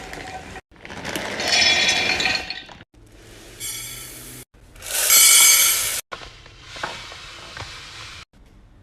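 Glass jars and containers clinking and rattling as pantry goods are handled and filled, in several short bursts that cut off abruptly.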